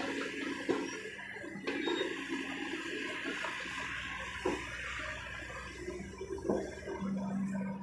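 Kobelco SK200 excavator working, its diesel engine humming steadily under a rushing noise like pouring soil or rock, with a few sharp knocks.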